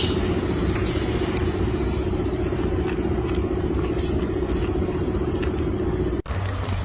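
A motor running steadily, a constant hum over rumbling noise, which cuts off abruptly about six seconds in.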